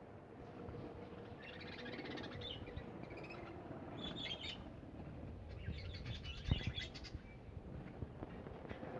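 Budgerigars chattering, in bursts of rapid high chirps and warbles, with a single knock about six and a half seconds in.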